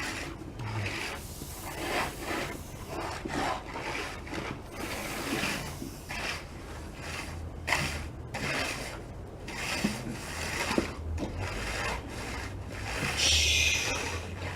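Hand finishing tool scraping across freshly poured concrete in repeated strokes, about one a second, with a louder stroke near the end.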